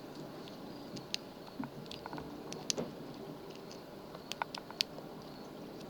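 Faint, irregular small clicks and ticks of a lock pick and tension wrench working the pins inside a lock, with a few sharper clicks around the middle and toward the end, over a low steady hiss.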